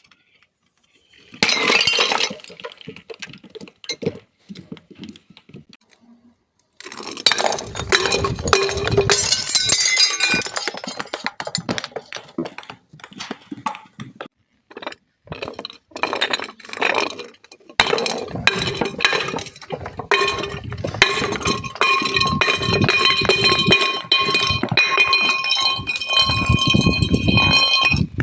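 Glass being crushed and broken: dense clinking and crunching of shards, with sharp impacts. In the second half, pieces ring with clear sustained tones.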